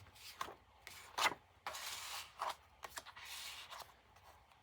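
Paper and card rustling as a handmade journal's pages, tags and ephemera are handled and turned: a series of short rustles and scrapes with one sharp tap about a second in.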